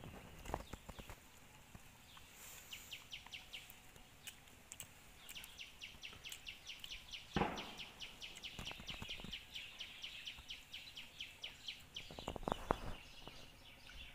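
A bird giving a long run of rapid, evenly spaced high chirps, about six a second, with a shorter run a few seconds earlier. A dull thump about seven seconds in and a quick cluster of knocks near the end are the loudest sounds.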